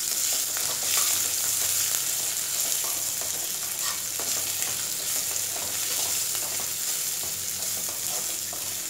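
Sliced onion, whole spices and dried red chillies sizzling in a little oil in a nonstick pan. A spatula stirs them, with scattered scrapes and taps against the pan.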